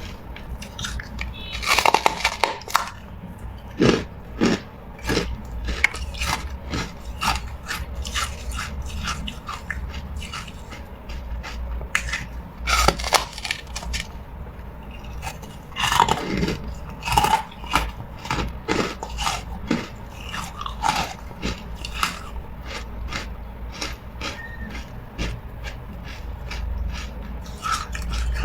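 A person biting and chewing hard carbonated ice: sharp crunches come at irregular intervals, with a few louder bites mixed among lighter chewing cracks.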